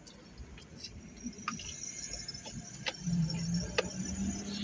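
A truck passing on a busy road, its engine drone setting in about three seconds in and growing louder, over a low traffic rumble, with a few sharp clicks.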